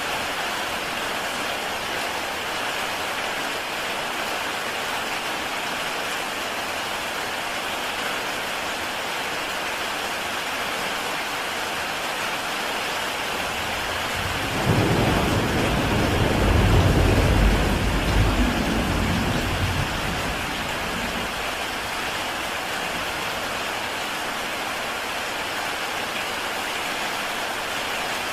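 Heavy rain falling steadily on a tile roof. About halfway through, a clap of thunder breaks in suddenly and rumbles low for a few seconds before dying away.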